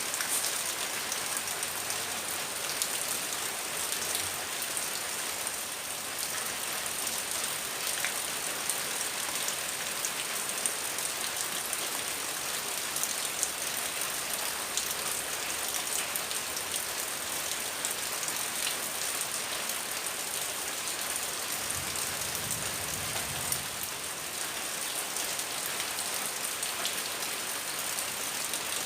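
Heavy rain falling steadily, an even hiss dotted with the small ticks of individual drops striking surfaces.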